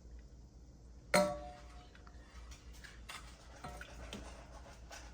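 A metal ladle knocks against cookware with one sharp clink about a second in, ringing briefly, followed by light scraping and small knocks as brine is ladled out.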